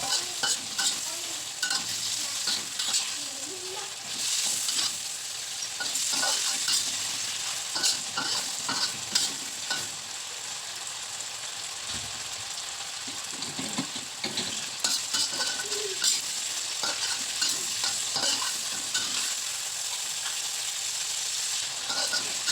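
Fried fish being stirred into chili sambal in a frying pan: a stirring utensil knocks and scrapes against the pan over a steady sizzle of hot oil.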